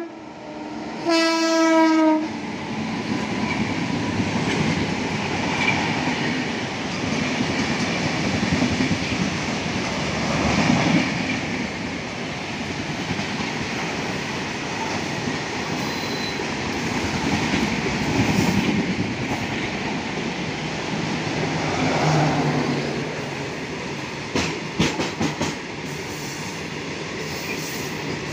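A locomotive horn blows once, about a second in, for about a second. Then a goods train of open steel box wagons rumbles past with wheel clatter, while an express train passes on the other track. Sharper clicks from the wheels crossing rail joints come near the end.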